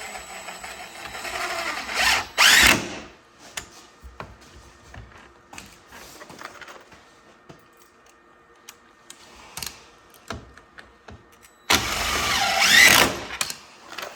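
Cordless power driver with a half-inch socket run in two short bursts, a brief one early and a longer one near the end, turning the bolts on the door hardware. Light clicks and knocks of handling between the bursts.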